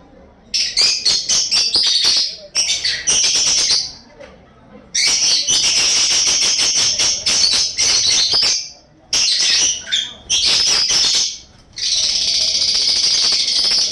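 Bird calls: about six bouts of rapid, high chattering notes, each lasting one to three seconds, separated by short pauses.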